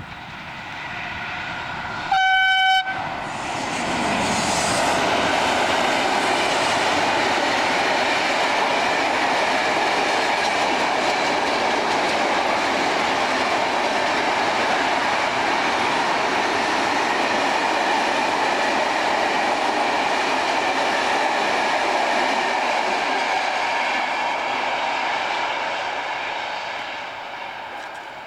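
A train sounds one short horn blast about two seconds in, then passes close by with a long steady rush of wheels on the rails that fades near the end.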